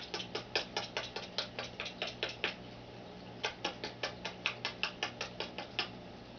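Quaker parrot's beak clicking rapidly against a fingernail, about five sharp clicks a second, in two runs with a short pause between them.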